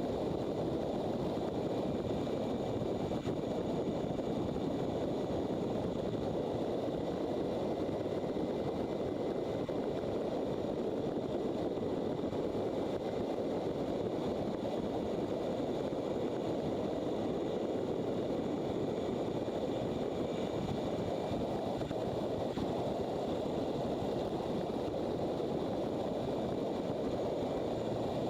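A motorcycle riding along at steady speed: engine noise mixed with a constant rush of wind, with no change in pace.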